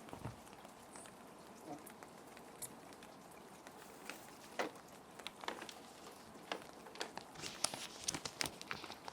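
Plastic sheet protectors crinkling and crackling as paper sheets are handled and slid into them, the sharp crackles coming more often in the second half. Under them runs a steady hiss of rain.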